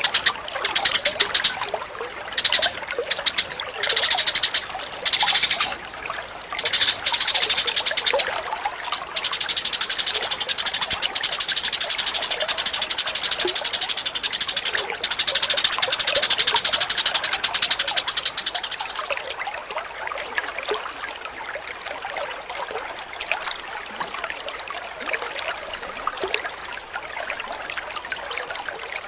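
A songbird master recording: a small bird's very rapid, dense high-pitched chattering trills in a run of bursts, then a long unbroken stretch, over a bed of trickling water. The chattering stops about two-thirds of the way through, leaving the water running alone.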